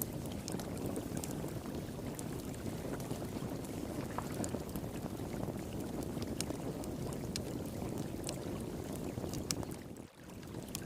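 Steady rush of flowing water with scattered sharp crackles and pops from a wood fire. Near the end the sound drops out for a moment.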